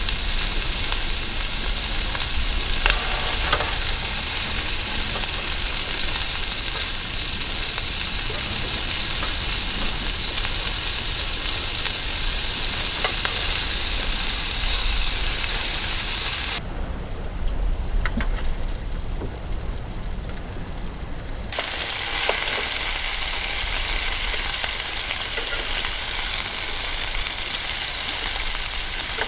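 Food sizzling in a frying pan, a steady hiss with small pops and crackles; the sizzling drops away for about five seconds past the middle, then comes back.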